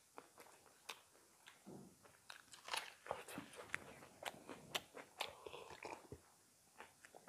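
Close-miked eating sounds: scattered sharp crunches, chewing and wet mouth clicks as people eat chicken curry and rice with their hands, one biting into a raw onion.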